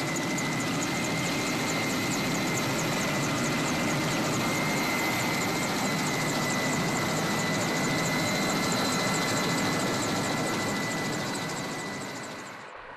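Helicopter in flight: a steady rush of rotor and turbine noise with a constant high whine. It fades and then cuts off near the end.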